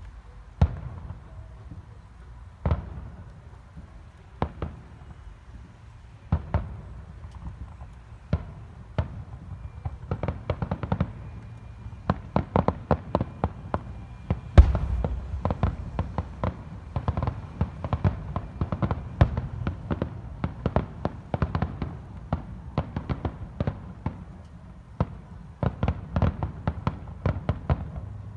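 Aerial fireworks shells bursting in the finale of a display. Single booms come a couple of seconds apart at first; from about ten seconds in they give way to a rapid, dense barrage of bangs, with the loudest boom about halfway through.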